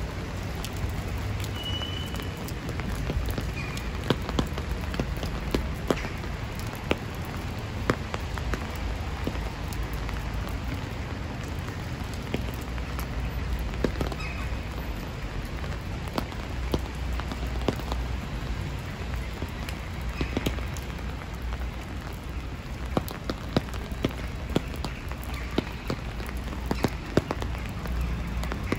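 Steady rain falling on a wet city street, with many scattered sharp drop taps and a low rumble underneath.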